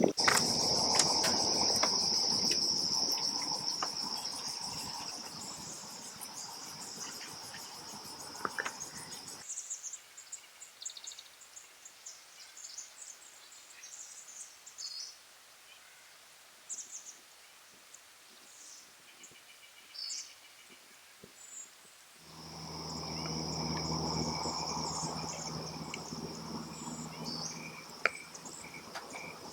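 Insects, like crickets, trilling steadily at a high pitch, broken by a sudden cut to a quieter stretch with scattered short bird chirps; about two-thirds of the way through the insect trilling returns together with a low steady hum.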